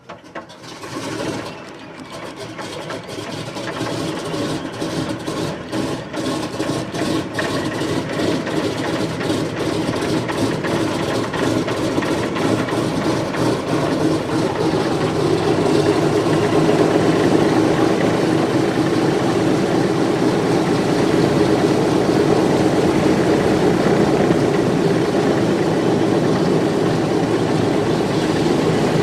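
Simulated start-up of a Vickers Wellington bomber's piston engines on a scale model: the engines catch with uneven popping for the first ten seconds or so, growing louder, then settle into a steady run from about halfway through.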